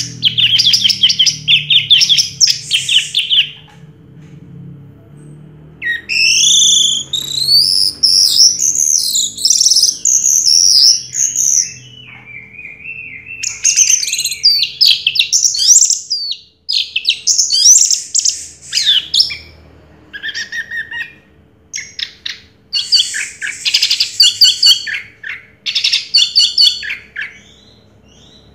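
Orange-headed thrush singing a loud, varied song of rapid trilled phrases and whistled sweeps, with short pauses between the phrases.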